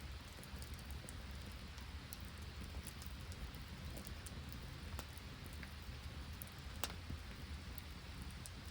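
Steady rain falling, with scattered sharp ticks through it, the loudest a few seconds in and about seven seconds in.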